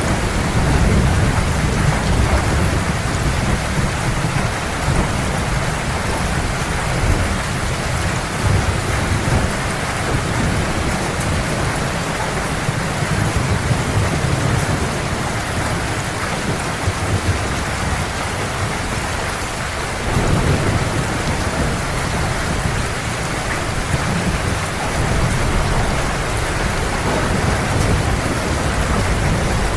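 Heavy rain falling in a steady hiss, with low rolling thunder rumbling underneath; the rumble dies down about two-thirds of the way through, then swells again.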